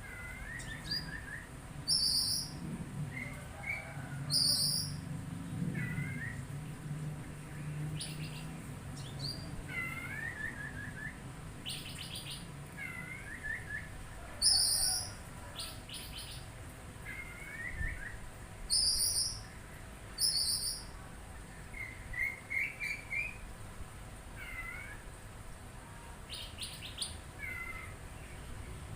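Songbird calling: bright, high chirps repeated every few seconds, between many short, hooked, mewing notes.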